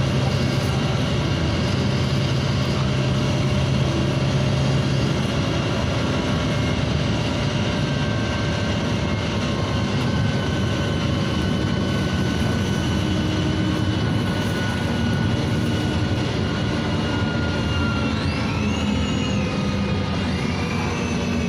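NefAZ 5299 city bus, with its Cummins ISBe diesel and Voith automatic gearbox, running under way, heard from inside the cabin. A steady engine drone gives way after about five seconds to a high drivetrain whine that slowly falls in pitch, with a few short squeals that rise and fall near the end.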